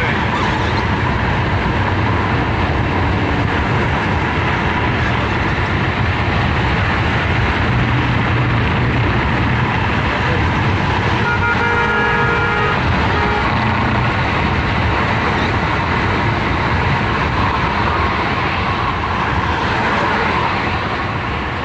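Steady road and engine noise of a car driving along a highway. A vehicle horn sounds once, for about a second and a half, around the middle.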